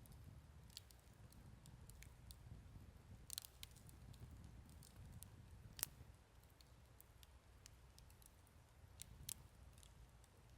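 Wood campfire crackling: scattered sharp pops and snaps, the loudest about six seconds in, over a faint low rumble.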